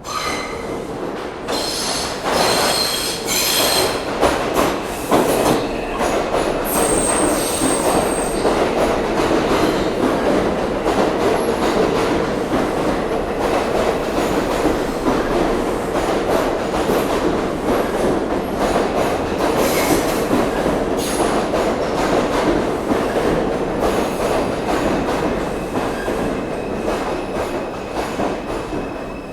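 R142 subway car running, heard from inside the car: a loud steady rumble of wheels on rail. High-pitched wheel squeals come near the start and again about two-thirds of the way through.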